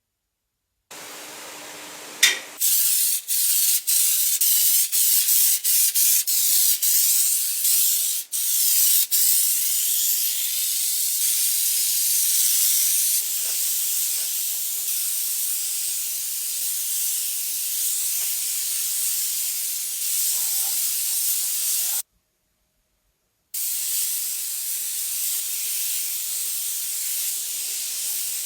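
Compressed-air spray gun hissing, first in a run of short trigger pulses, then in long steady passes. It cuts out for a moment near the end and starts again.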